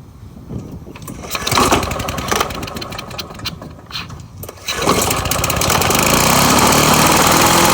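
Two-stroke lawn mower engine being pull-started after its bulb is primed: a few seconds of irregular pulls and sputters, then it catches a little under five seconds in and runs steadily. This is the test start after the carburettor face plate was cleaned and refitted to cure a fuel leak.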